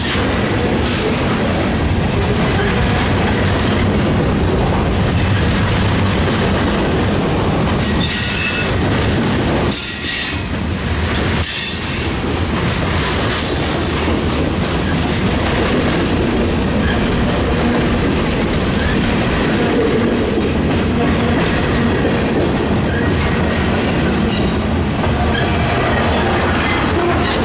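Freight train rolling past with a steady rumble of cars and wheels on the rail, some clacking, and wheel squeal rising a few times around the middle.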